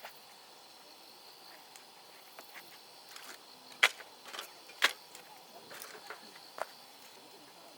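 Wood fire crackling, with a few sharp pops from the burning logs, the two loudest about a second apart in the middle.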